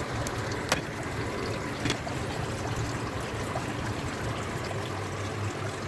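Water trickling steadily inside a homemade evaporative air cooler, the pumped water running down through the filter, over a low steady hum. Two faint clicks, one under a second in and one about two seconds in.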